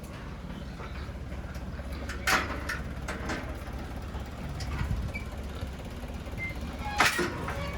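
Truck engine idling with a steady low hum, broken by a few sharp knocks and clatters, the loudest about seven seconds in.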